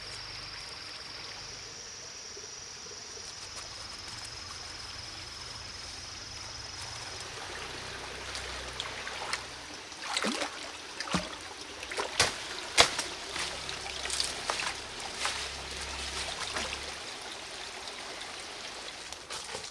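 Water running steadily, with a thin high steady whine over roughly the first seven seconds. From about halfway there is a run of irregular sharp knocks, the loudest about two-thirds of the way in.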